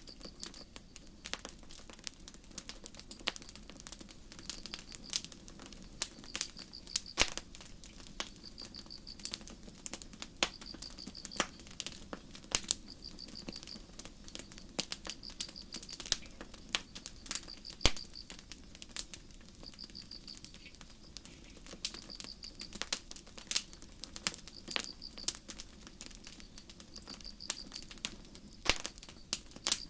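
Campfire crackling with irregular sharp pops, the loudest about 7 and 18 seconds in, over a low, steady rush from the burning wood. Crickets chirp in short, high trills every second or two.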